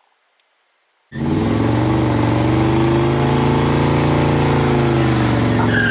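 Car engine revving, loud and held, its pitch rising a little and easing back, starting abruptly about a second in and cutting off sharply at the end.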